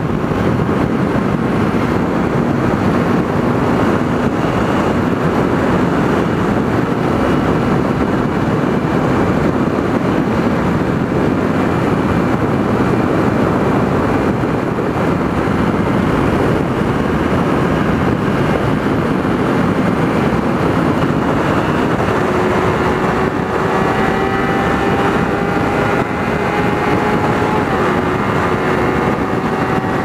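Motorcycle riding at cruising speed: heavy wind rush over the microphone with the Kawasaki Ninja 300's parallel-twin engine running underneath. About two-thirds of the way in, the engine tone comes through more clearly and climbs slowly in pitch.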